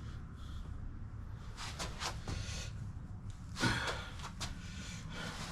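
A man breathing hard after a leg workout, with several short, noisy exhales, the strongest about two-thirds of the way in, over a steady low hum.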